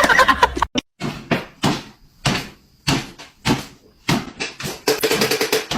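A series of sharp knocks or thumps, roughly two a second.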